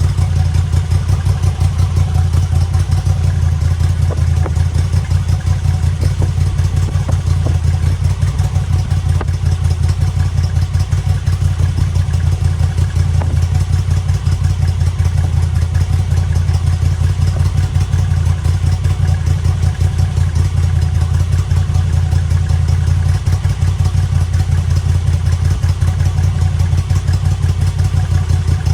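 Moto Guzzi V85TT's air-cooled transverse V-twin idling steadily, with an even deep pulse and no revs.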